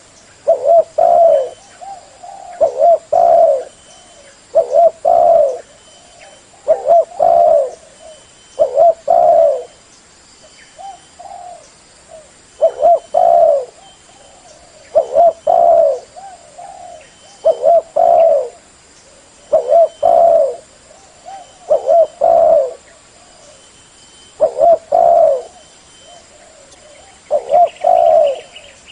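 Spotted dove cooing loudly: short phrases of a few low coos each, repeating about every two seconds, with a short softer lull partway through.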